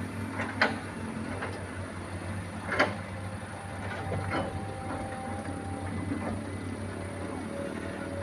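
Truck engine running steadily, with a few sharp knocks or clanks: about half a second in, near three seconds, and past four seconds.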